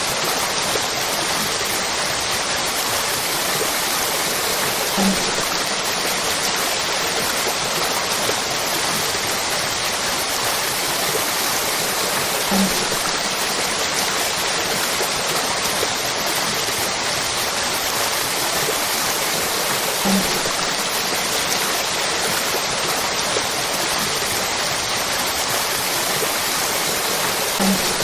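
Waterfall: water falling and rushing in a steady, dense, even rush. A brief low blip recurs about every seven and a half seconds.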